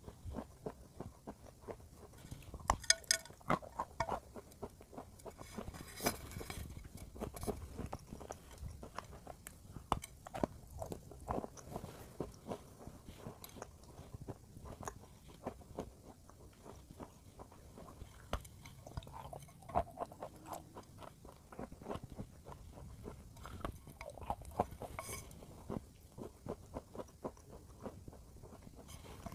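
Close-up chewing and crunching of a dry, crumbly powdery block, with many small crisp crunches and a few louder bites.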